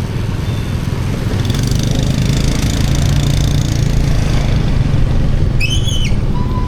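Motorcycle running while being ridden: a steady engine rumble mixed with road and wind noise. About five and a half seconds in there is a short, high tone that rises and then falls.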